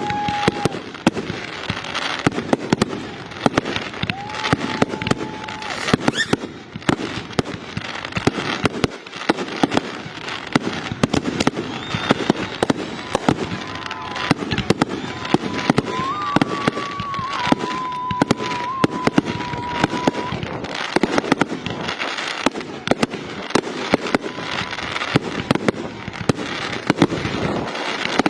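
Fireworks display in a dense, continuous barrage of rapid bangs and crackles, with a few held whistling tones mixed in.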